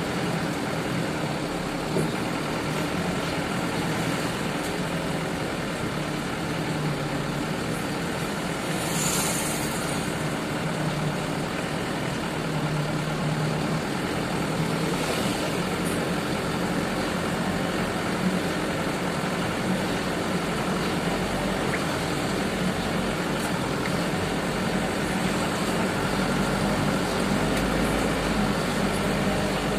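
Engine of a sugarcane truck running steadily under way, with a brief hiss about nine seconds in and a fainter one about six seconds later.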